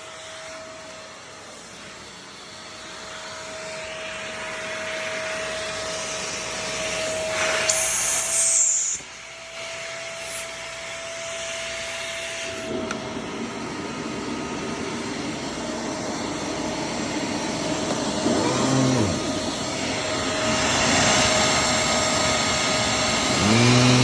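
Maytag M1200 vacuum cleaner running with a steady motor whine; about halfway through the whine gives way to a fuller rushing noise that slowly grows louder, and a pitched tone rises in the last second.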